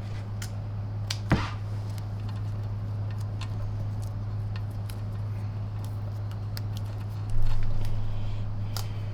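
Handling noises of wiring work on a vacuum motor: scattered light clicks, a sharp knock about a second in and a louder rustling noise near the end that fades away, over a steady low hum.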